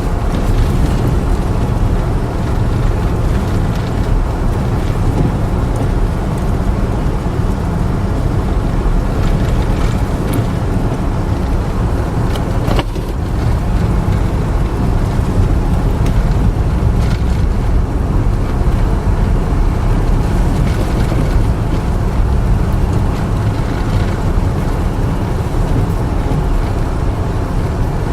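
A car driving steadily: a continuous low rumble of engine and road noise with no breaks.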